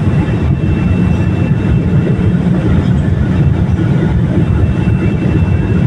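Cabin noise inside a Boeing 787 rolling on the ground after landing: a steady low rumble of the engines and wheels, with a faint high whine over it.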